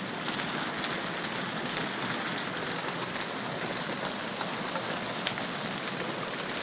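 Hail and rain pelting down steadily: a dense, even hiss dotted with many small sharp ticks of hailstones striking.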